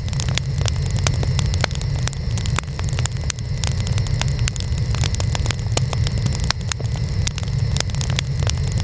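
Burning wood fire crackling: frequent sharp, irregular pops and snaps over a steady low rumble of the flames.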